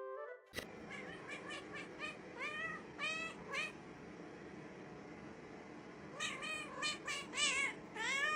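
A cat meowing repeatedly, short calls that rise and fall in pitch, in two bouts with a pause of about two seconds between them; the second bout comes faster.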